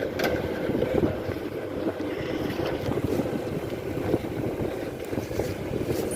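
Wind buffeting the microphone, a continuous low rumble.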